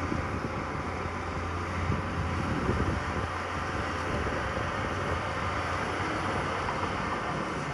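Diesel engine of heavy earthmoving machinery running steadily with a low hum, under a constant mechanical clatter.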